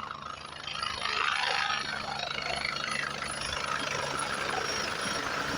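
Helicopter engine and rotor running, a steady low hum under a rushing noise that grows louder about a second in.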